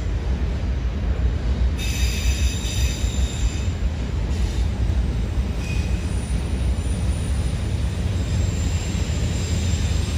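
Freight train of autorack cars rolling past: a steady low rumble of steel wheels on rail, with high-pitched wheel squeal coming and going, loudest about two to four seconds in and again near the end.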